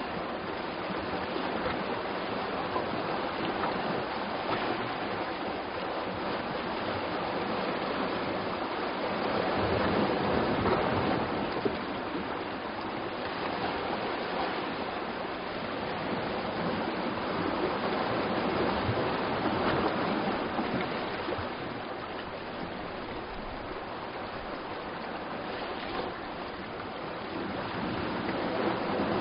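Sea surf washing against a rocky shore: a continuous rush of water that swells louder and eases off in slow surges.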